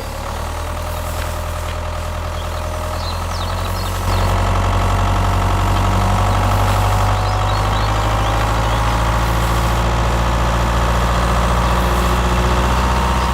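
An engine idling steadily, with a deep hum, getting louder about four seconds in.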